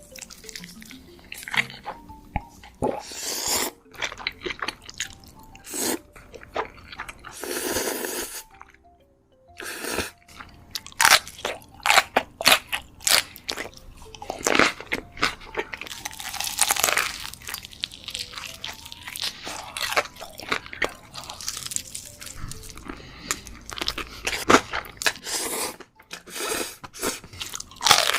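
Close-miked eating sounds: a person biting and chewing crunchy food, with many sharp crisp crunches in quick succession and a short quieter pause about nine seconds in.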